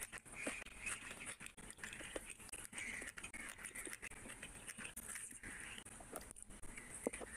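Close-miked eating sounds: wet chewing and lip smacking, with fingers squishing rice and curry on a plate. A stream of small irregular clicks, with one sharper click about seven seconds in.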